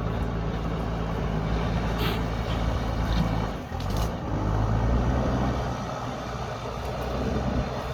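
Backhoe loader's diesel engine running under working load. It drops briefly a little over three and a half seconds in, then picks up again, with two short knocks about two seconds apart.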